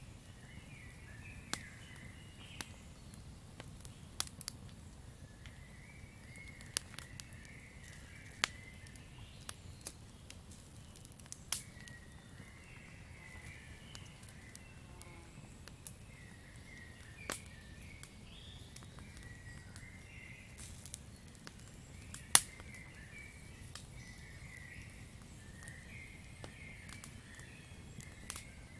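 Campfire crackling: irregular sharp pops and snaps over a low steady rumble of burning wood, with one especially loud pop about 22 seconds in. Chirping from night-forest creatures comes and goes in the background.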